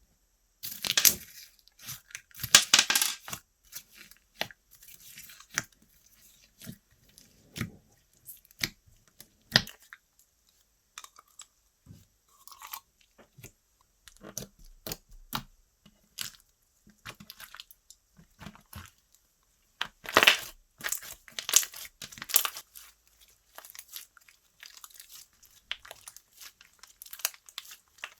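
Slime being squished, stretched and pressed by hand, giving irregular sticky crackles, clicks and pops, with louder dense bursts near the start and again about two-thirds of the way through.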